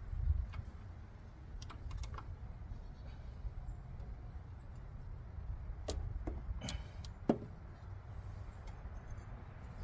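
Scattered light clicks and taps of small metal parts and hand tools being handled, over a low rumble; one sharper click comes a little past seven seconds in.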